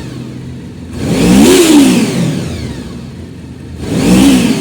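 Honda VFR750F's warm V4 engine idling and revved twice: a longer rev about a second in that rises and falls back to idle, and a short blip near the end. It runs clean, without stray metallic noises.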